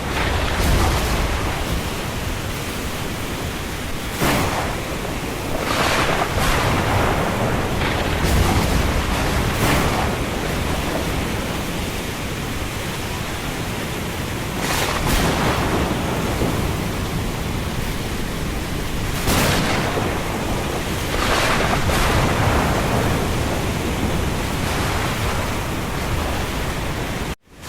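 Thunderstorm and windstorm ambience: a dense, steady rush of wind and rain, swelling in gusts every few seconds. The sound cuts out for a split second near the end.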